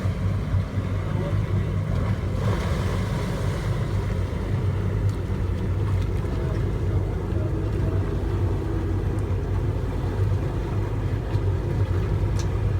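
Boat engine running steadily at low revs, a deep even hum. There is a brief rushing noise about two and a half seconds in.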